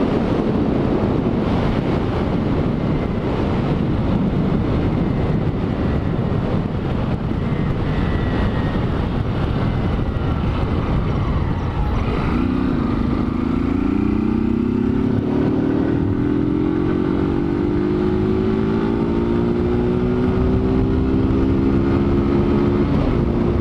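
Honda CG 160 Titan's single-cylinder four-stroke engine on its stock exhaust, heard while riding with wind rushing over the microphone. About halfway through, the engine note comes up clearly and climbs steadily in pitch as the bike accelerates, then shifts pitch near the end.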